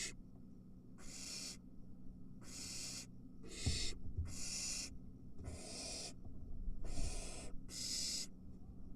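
Barn owl nestlings giving their rasping, hissing begging calls, one long hiss about every second, with a few low thumps in the nest box between them.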